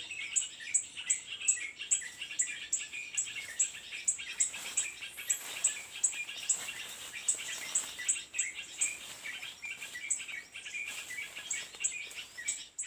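Small birds chirping: a thin, high note repeated about three times a second over busy twittering.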